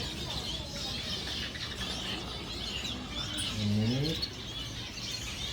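A flock of small caged finches chirping and twittering, many short high calls overlapping without pause.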